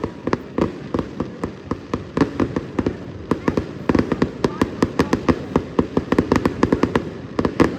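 Fireworks going off: a rapid run of sharp cracks and pops, several a second, growing denser a few seconds in.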